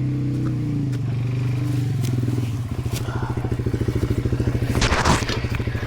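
Dual-sport motorcycle engine idling, its beat dropping to a slower, uneven pulse about halfway through. A brief noisy burst near the end.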